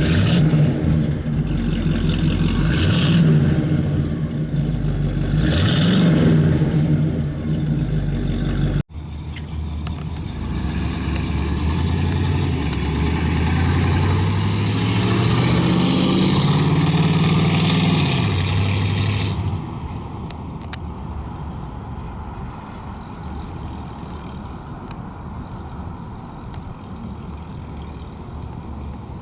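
1950 Oldsmobile Rocket 88's 303 cubic inch V8 running and revved twice, the pitch rising each time. Then the engine pulls the car along, its pitch climbing in steps, and it runs on more quietly near the end.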